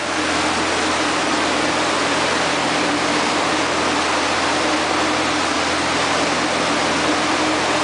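Tour boat under way: a steady engine drone under a loud, even rush of wind and water noise.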